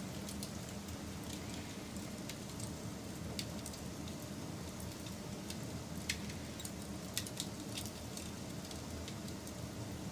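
Wood fire burning with a steady low rush and irregular sharp crackles and pops, the loudest pop about six seconds in.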